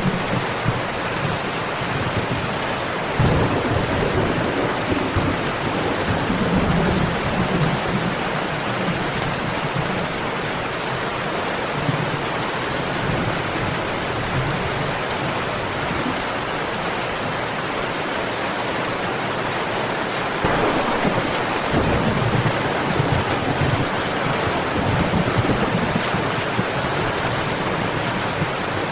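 Steady heavy rain hissing, with thunder rumbling twice: once about three seconds in and again about twenty seconds in.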